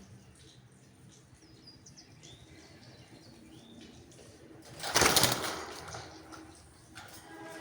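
A parrot flapping its wings in one brief, loud flurry about five seconds in, after a few faint chirps.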